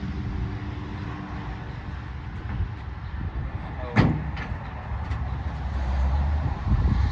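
A single sharp clank about four seconds in, over a steady low rumble, with a few lighter clicks after it.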